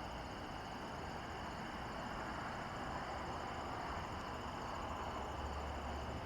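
Insects trilling steadily in several high, finely pulsed tones over a constant background hiss.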